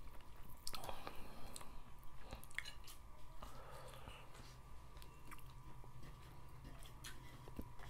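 Close-miked eating sounds: chewing and mouth noises of two people eating rice with fish soup by hand, with scattered small clicks and taps of fingers and a spoon against metal plates and a bowl. A faint steady tone hums underneath.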